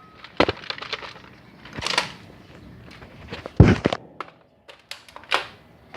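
A string of short knocks and clicks, with one louder, deeper thump about three and a half seconds in.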